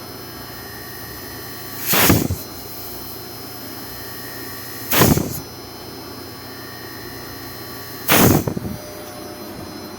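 Steady motor hum from an air conditioner's indoor fan motor, running on a repaired IFB control board. It is broken three times, about three seconds apart, by a loud harsh burst lasting about half a second.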